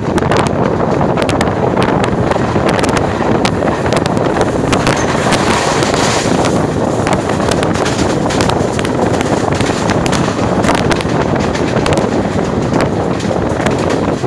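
A moving passenger train heard from on board, with wind buffeting the microphone and a steady rush of running noise. Irregular sharp clicks and rattles come from the wheels and coach.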